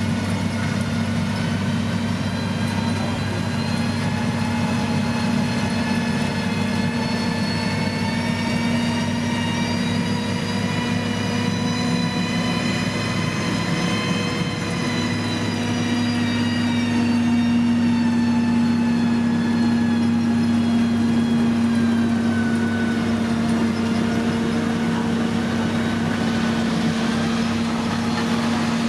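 Diesel engine of heavy road-construction machinery running steadily, with a whine that slowly rises in pitch until about halfway through, then falls again.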